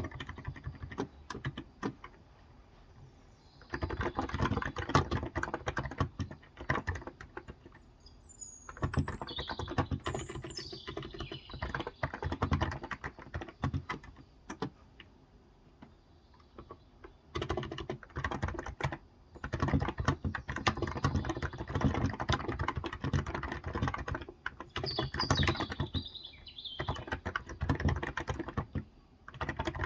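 Typing on a Cox Endeavour electrostatic capacitive (Topre-style) keyboard with 35 g keys, in bursts of rapid key strokes broken by pauses of a second or several. Birds chirp briefly, once about nine seconds in and again about twenty-five seconds in.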